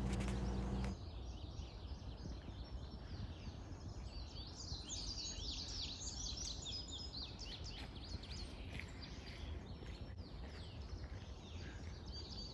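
Several songbirds singing and chirping, with many short overlapping notes, over a low rumble of outdoor background noise. A low steady hum cuts off about a second in, before the birdsong starts.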